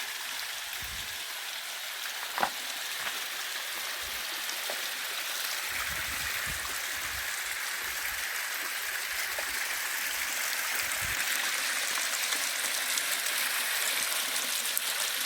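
Running water of a mountain stream: a steady, even hiss that grows slightly louder, with a single sharp click about two seconds in and a few low rumbles of wind on the microphone.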